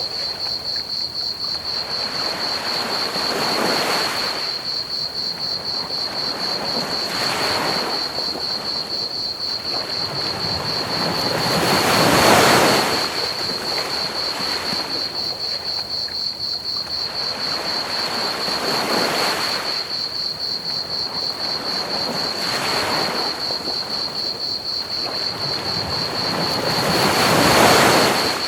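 Ocean waves washing onto a beach, swelling roughly every four to five seconds, with the biggest about twelve seconds in and near the end. A steady high cricket trill chirps throughout over a constant hiss of pink noise.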